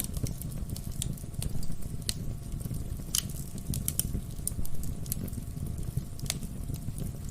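Wood fire burning in a fireplace: a steady low rumble of flames with irregular crackles and sharp pops from the burning logs, a few pops louder than the rest.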